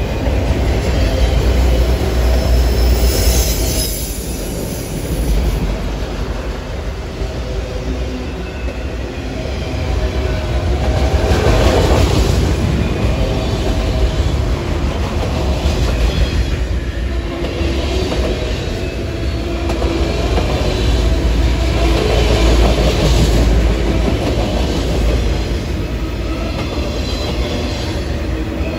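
Freight train of autorack cars rolling past close by: a continuous rumble of steel wheels on the rails with clickety-clack over the joints and some wheel squeal, swelling and easing every few seconds as the cars go by.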